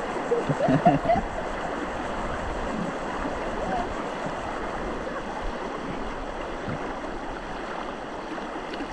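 River water rushing steadily, with a person's voice briefly about a second in.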